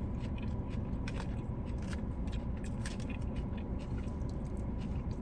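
A person chewing and biting food close to the microphone, with many small sharp mouth clicks and crackles, over a steady low rumble.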